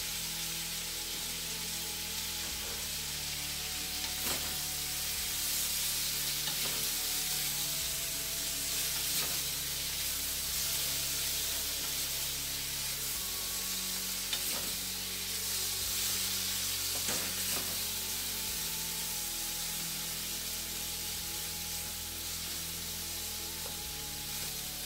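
Taro stems (takway) sizzling in hot oil in an aluminium pan over a gas flame, stirred with a wooden spatula that knocks against the pan now and then.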